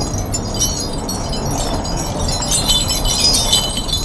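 High, light metallic tinkling, many small ringing notes that get busier in the second half, over the low rumble of a car.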